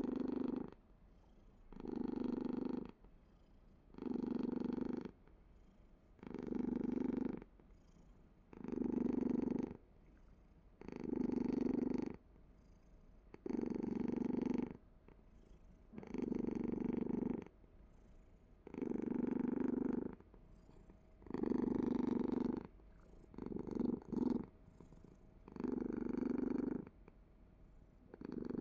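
A cat purring in regular bouts of about a second each, one every two and a half seconds or so, with short quiet pauses between.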